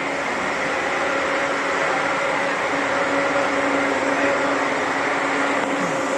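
Scania K400 coach running with a steady mechanical hum, holding a few constant tones with no change in engine speed.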